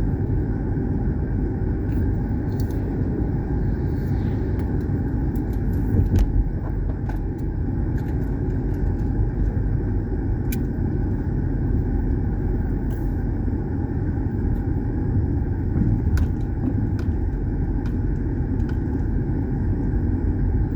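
A car driving, giving a steady low rumble of engine and road noise, with a few light clicks along the way.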